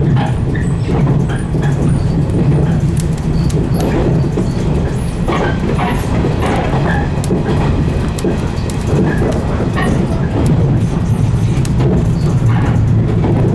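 115 series electric train running along the line, a steady low rumble from the motors and wheels heard from the front of the train, with scattered short clicks and squeaks from the track and car body.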